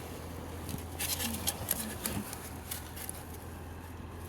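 A few light clicks and rustles of handling about a second in, over a steady low hum.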